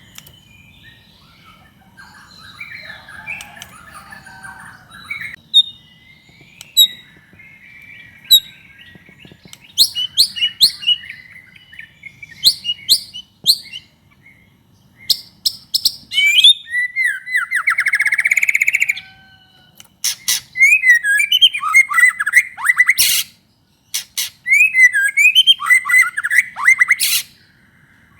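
White-rumped shama (murai batu) in full, vigorous song. It opens with soft warbling, then from about ten seconds gives loud bursts of sharp rising whistles and rapid trills, with a brief pause a little past two-thirds of the way through.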